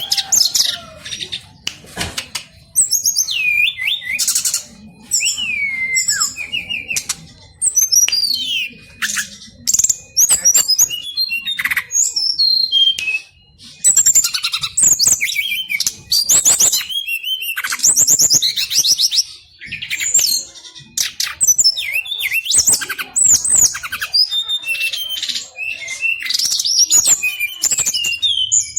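Brown-chested jungle flycatchers singing a long, almost unbroken run of varied whistled phrases, sweeping notes and rapid trills, with only short pauses between phrases.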